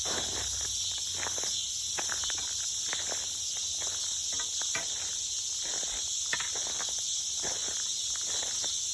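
A steady, high-pitched insect chorus, with footsteps walking along a trail about once or twice a second.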